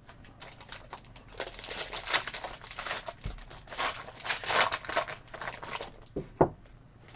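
Trading card pack wrapper being torn open and crinkled by hand for several seconds, followed by a single sharp knock near the end.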